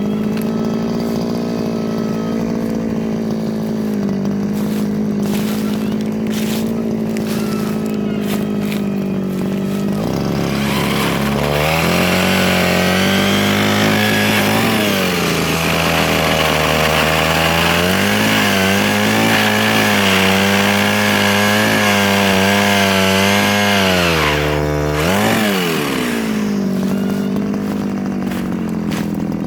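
Mini chainsaw running steadily, then cutting into soft wood from about ten seconds in. For some fifteen seconds its pitch drops and wavers under the load, before it runs free again at its earlier steady pitch.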